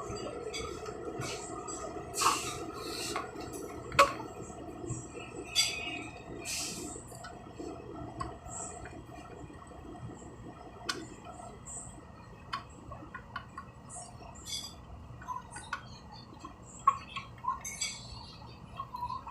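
Irregular clinks, clicks and knocks of small hard objects, over a faint steady background hum.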